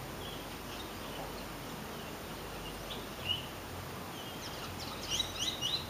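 Small birds chirping in short, scattered calls over a steady background hiss, with a quick run of chirps near the end.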